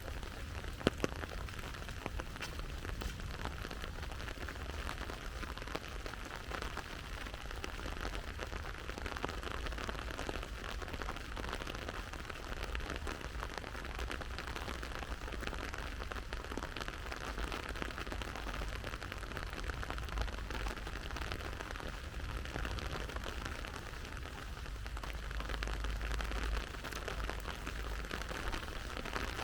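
Steady rain falling and pattering on surfaces, with one sharp tap about a second in.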